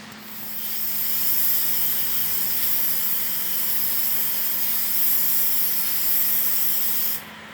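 Aerosol can of Rust-Oleum Appliance Epoxy spraying in one long, steady hiss that starts just after the beginning and cuts off sharply near the end.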